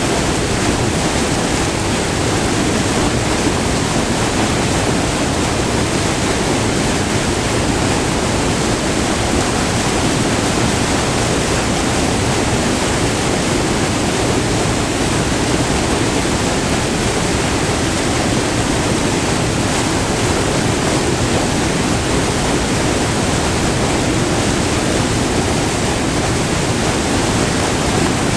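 Small multi-tiered waterfall, white water rushing steadily over rock, heard up close as a loud, even roar with no breaks.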